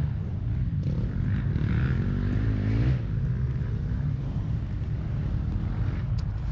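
Dirt bike's 250 cc four-stroke single, a Gas Gas EX250F, idling with a steady low drone, with a short rising rev about two seconds in.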